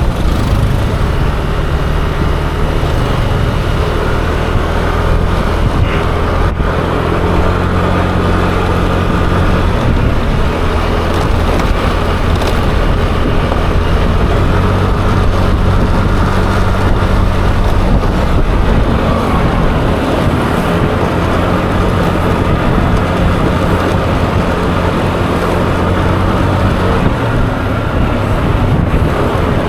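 Yamaha Aerox 155 scooter's single-cylinder engine running steadily during a ride, its note shifting up and down with changes of speed, over constant road noise.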